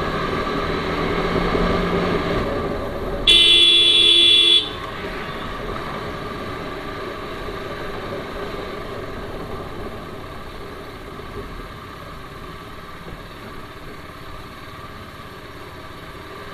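TVS Apache RR310's single-cylinder engine running under way, with one loud vehicle-horn honk lasting a little over a second about three seconds in. The engine and road noise then ease off and get quieter in the second half.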